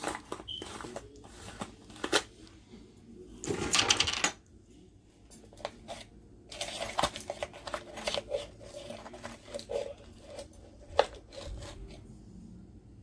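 Spice containers being handled and shaken over a bowl of chicken: a run of clicks and light knocks, with a burst of rattling about four seconds in and more clicking later.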